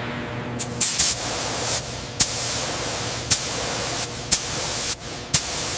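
High-pressure spray hissing steadily, with short, sharp louder bursts about once a second.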